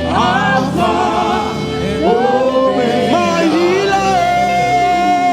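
Gospel worship music: singing voices over steady held keyboard chords.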